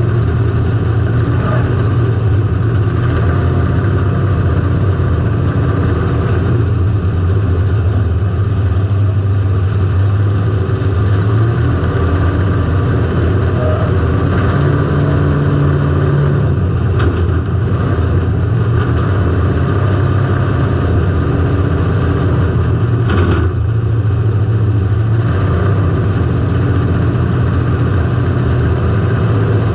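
Car engine running loud as heard from a camera mounted on the car, its pitch rising and falling as it is revved and eased off. Two short sharp knocks come through, about 17 and 23 seconds in.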